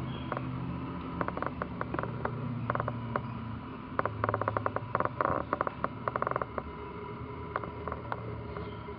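Kittens moving about, making quick light clicks and taps in bursts, with the densest run in the middle, over a low steady hum.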